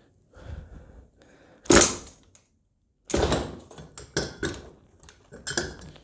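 Short, separate bursts of mechanical clatter and knocks, the loudest about two seconds in and several more in the second half, as the Kyosho USA-1's nitro engine is cranked without catching.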